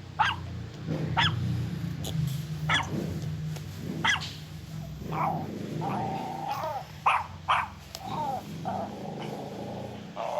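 Puppies yipping in short, high, falling barks about once a second, with a drawn-out whine a little past the middle, over a steady low rumble.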